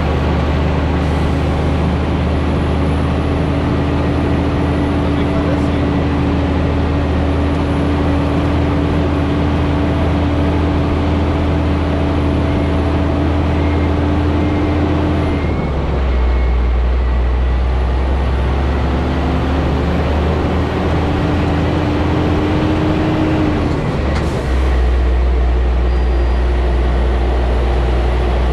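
Scania G440 truck's 13-litre inline-six diesel running steadily under a heavy load on a loaded downhill, with a steady whine over the low drone. The engine note drops and shifts abruptly about halfway through and again near the end.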